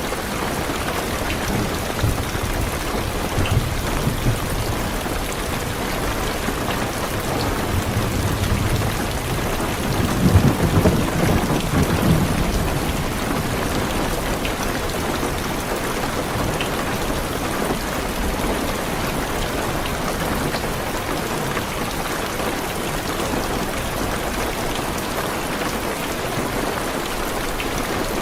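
Heavy rain steadily hitting a car's roof and windows, with thunder rolling low underneath and swelling loudest about ten seconds in.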